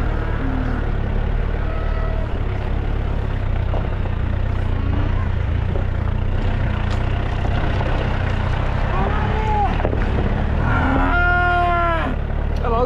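Cattle mooing, a shorter call about nine seconds in and a longer, louder one near the end, over the steady low running of a 4x4 truck's engine.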